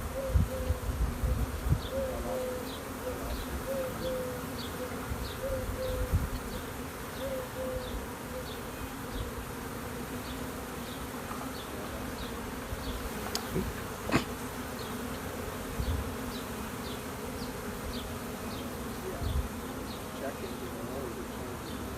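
A swarm of honey bees buzzing steadily in a close, even hum while being hived into a nuc box. Short repeated calls sound over the hum in the first several seconds.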